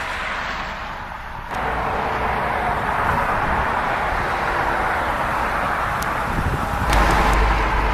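Ford Taurus 3.5-litre V6 idling, heard at its dual exhaust outlets as a steady rushing rumble that grows louder about a second and a half in. Wind buffets the microphone, heaviest near the end.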